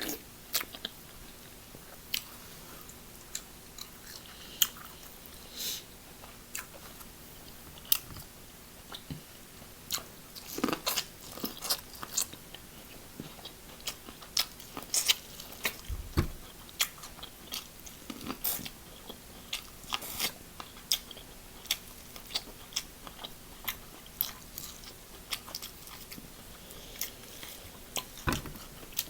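Close-miked eating: chewing and mouth sounds with many short, sharp clicks at irregular intervals.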